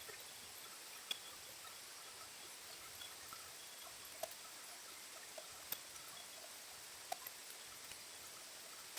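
Light rain falling: a faint steady hiss, with a few sharp drops ticking at irregular intervals.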